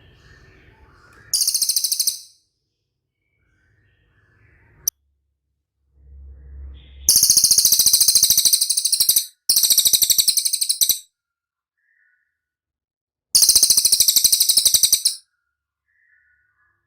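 A cililin bird singing four loud, very rapid high-pitched trills, each lasting one to two seconds, with pauses between them.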